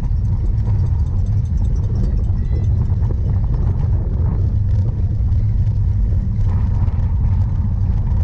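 Steady low rumble of wind buffeting the microphone and bike riding noise as a cyclocross bike is ridden over the course.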